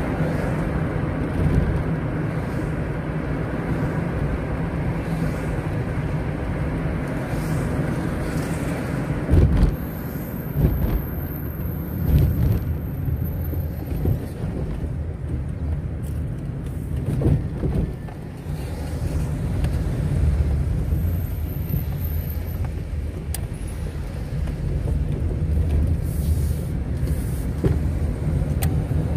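Road vehicle driving along, heard from inside: a steady low rumble of engine and tyre noise, with a few louder knocks.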